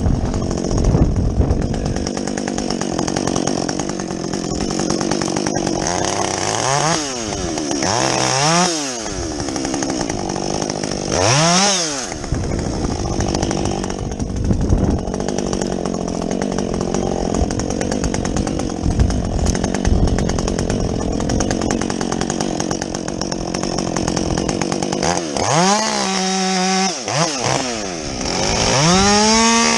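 Husqvarna 562XP two-stroke chainsaw with a modded muffler bucking felled logs: held at high revs through the cuts, with the revs dropping and rising again several times as the throttle is let off and opened between cuts, three times in the first half and repeatedly near the end.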